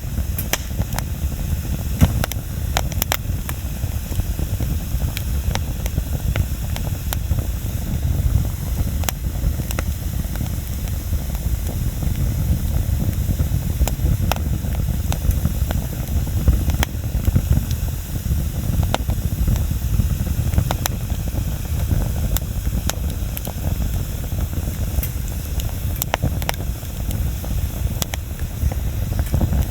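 Wood bonfire burning: a steady low rumble of flame with frequent sharp crackles and pops at irregular intervals.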